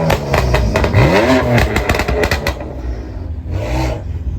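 A car engine revving up and dropping back, with a quick run of sharp cracks over the first couple of seconds. It settles quieter, then gives a short rev near the end.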